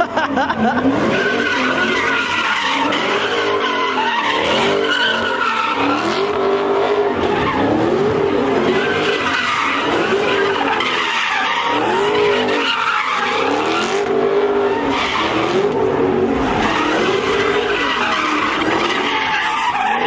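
A car doing donuts with tires squealing continuously, its engine revving up and falling back over and over, about once every second or so.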